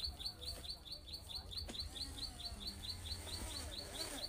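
A bird's high, short chirp repeated evenly, about four times a second.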